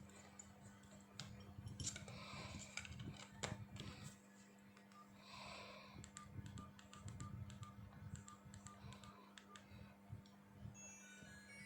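Faint clicks and taps of a Nokia 105 mobile phone being handled and its keypad pressed, with a run of short evenly spaced beeps midway. Near the end the phone's ringtone melody starts playing through its speaker.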